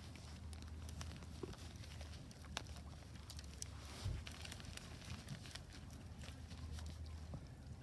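Wood fire crackling in a Solo Stove Ranger stainless steel fire pit: irregular sharp pops and ticks over a steady low rumble, with a louder pop about four seconds in.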